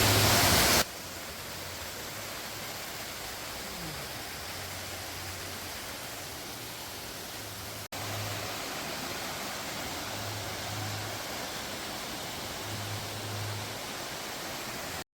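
Waterfall rushing steadily, with a brief louder rush of noise in the first second.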